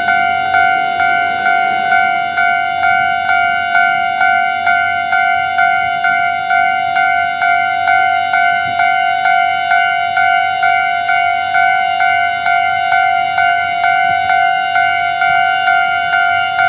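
Railway level-crossing warning bell ringing steadily, about two strikes a second, signalling that a train is approaching and the crossing is closed.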